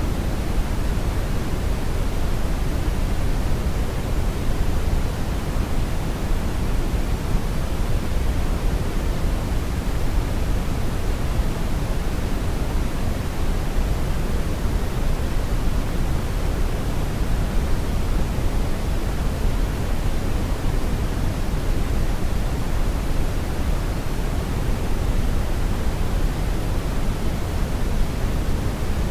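Steady brown noise: a constant, deep rushing hiss with most of its weight in the bass and little at the top, unchanging throughout.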